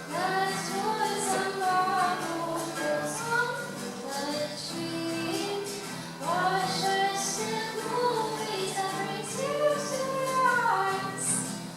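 A song: high voices sing two phrases over instrumental accompaniment, the second phrase beginning about halfway through.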